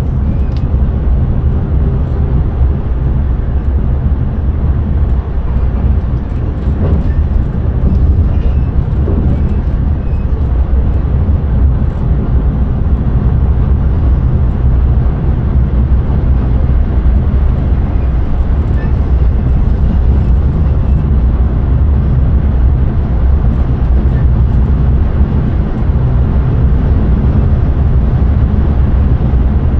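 Intercity train running at speed, heard from the driver's cab: a steady, loud rumble of running and rolling noise, with faint light ticks and rattles over it.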